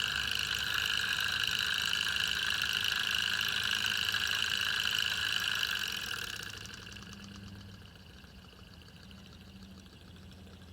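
Small alcohol-fired hot air (Stirling-cycle) engine running fast, a steady high whirring hiss that dies away about six and a half seconds in.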